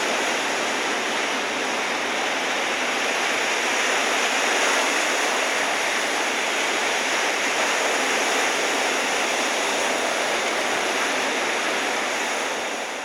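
Ocean surf breaking, a steady dense wash of wave noise that fades out near the end.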